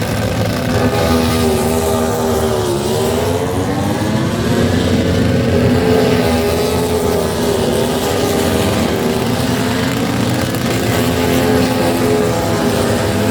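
A loud engine running steadily, its pitch dropping sharply and climbing back about three seconds in, with smaller dips and rises after.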